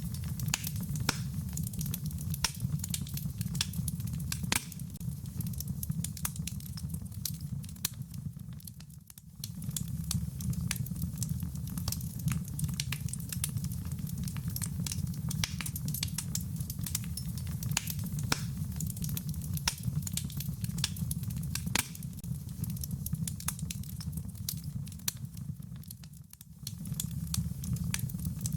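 Wood fire crackling, with dense sharp pops and snaps over a steady low rumble, and a soft patter of rain. The sound dips briefly twice, about nine seconds in and near the end.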